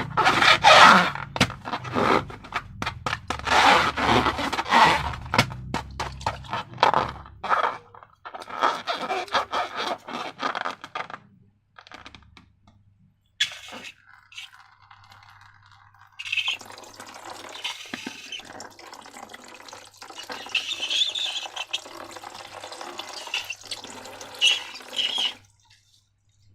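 Wet slime being poured and worked by hand, with squelching and scraping, loudest for the first seven seconds or so and then quieter.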